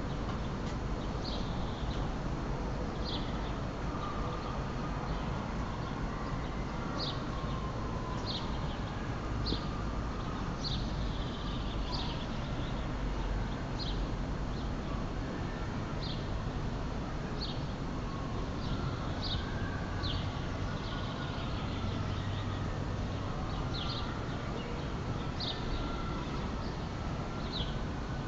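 A bird repeating a short, high, falling call about once every second or so, over a steady low background rumble.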